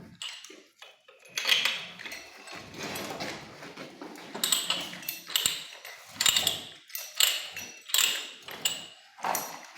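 A metal pipe being threaded by hand with a ratchet die stock: metal-on-metal clicking and scraping strokes, settling into a regular rhythm of about one stroke every three-quarters of a second in the second half.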